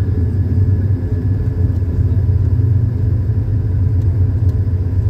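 Steady low rumble of cabin noise inside an Airbus A220-300 airliner, the sound of its engines and airflow heard from a passenger seat.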